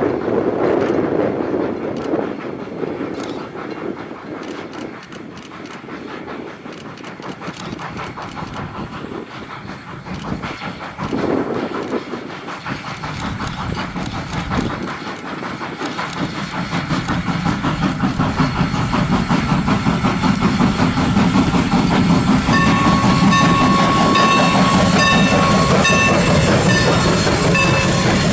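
Train running on the track, growing louder over the second half as it draws near. A steady high-pitched tone joins in about three-quarters of the way through.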